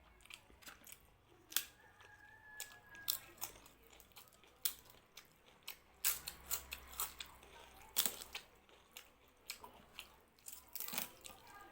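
A person chewing and crunching food close to the microphone: irregular sharp clicks and crunches, several a second at times, with the loudest bites about a second and a half in and again at around six and eight seconds.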